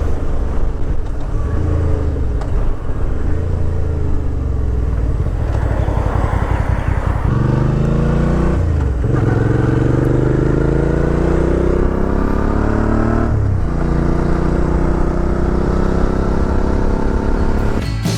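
Suzuki V-Strom 650 XT's V-twin engine running under way, then accelerating: its pitch rises, drops sharply at a gear change about halfway through, rises again and drops at a second shift about three-quarters of the way in.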